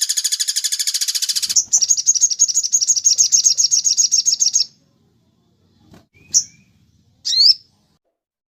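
Bird calls: a fast, even, high-pitched trill that gives way about one and a half seconds in to a second, slightly slower trill, which stops a little before the five-second mark. Two short sharp chirps follow, the second sweeping upward.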